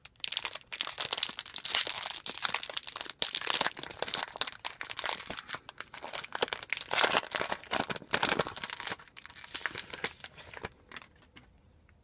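Plastic and foil packaging of a sealed trading-card box being crinkled and torn open by hand, with dense rustling and crackling that dies down near the end.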